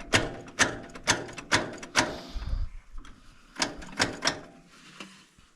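Repeated sharp metallic knocks or clanks, roughly two a second, with a heavier low thud about two and a half seconds in; the knocking stops about four and a half seconds in.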